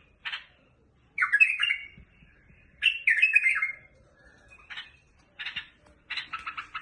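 A bulbul singing in short, separate warbled phrases. Near the end it breaks into a fast, continuous chatter.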